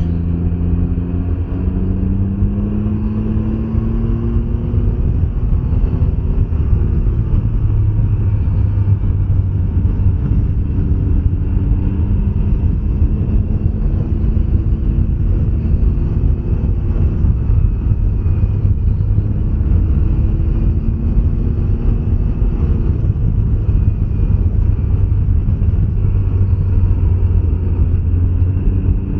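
Can-Am Ryker 900 three-wheeler's engine running while riding at road speed, its pitch rising slowly several times as it picks up speed, with steady road and wind noise.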